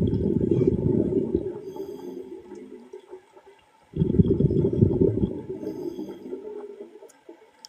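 Diver's exhaled breath bubbling out underwater, twice: each exhalation starts suddenly, at the start and again about four seconds in, and fades away over about three seconds.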